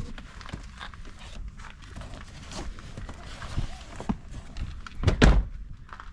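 Scattered knocks and handling clatter, with one loud, heavy thump about five seconds in.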